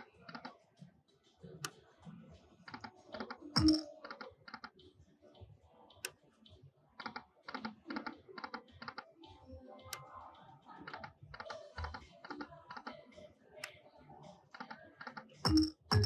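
Lightning Link slot machine clicking and ticking as its reels spin and stop, in quick uneven strokes, with two louder thumps, one about four seconds in and one near the end.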